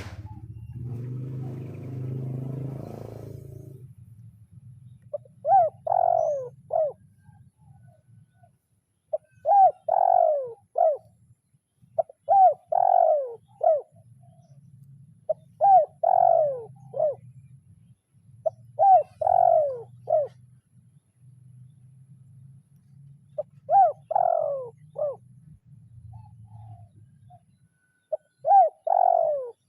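Spotted dove (tekukur) cooing its challenge call to a rival. It gives seven short phrases of three or four notes each, one every three to five seconds, starting about five seconds in. A low steady hum runs underneath, with a brief rustling noise in the first few seconds.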